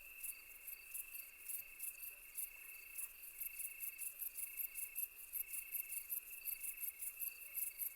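Crickets and other insects chirping in a night chorus: a steady high trill throughout, rapid ticking chirps, and a second pulsed call repeating about once a second.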